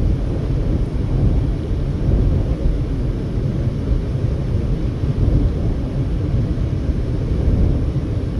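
Steady low rumble of a car driving at highway speed: road, tyre and engine noise with no change in pace.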